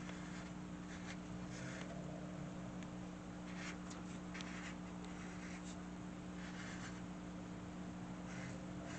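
Drawing strokes on paper: short, irregular scratchy strokes of varying length over a steady low electrical hum.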